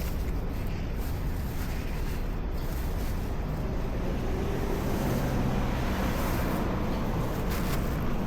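Street traffic: a motor vehicle's engine humming close by, stronger in the second half, over a steady low rumble.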